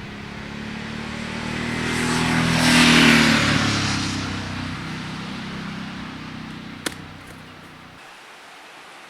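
A motor vehicle driving past, growing louder to a peak about three seconds in, its engine tone dropping in pitch as it goes by, then fading away. A single sharp click near the end.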